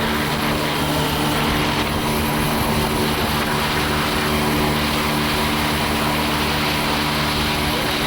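Boat engine running steadily under way, a constant drone with the hiss of water and air over it.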